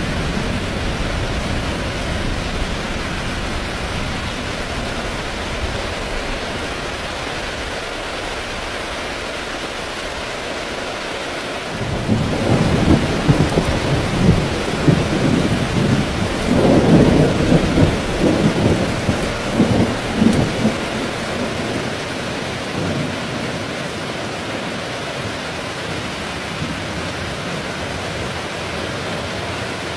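Heavy rain falling steadily. About twelve seconds in, a long roll of thunder rumbles for about nine seconds, swelling and fading, before the rain alone carries on.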